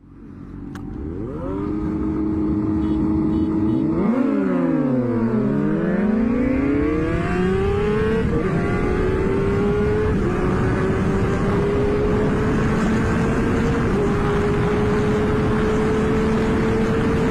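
Motorcycle engine under hard acceleration: its pitch drops sharply about four seconds in, then climbs steadily, with brief small dips at each upshift over a growing rush of wind and road noise.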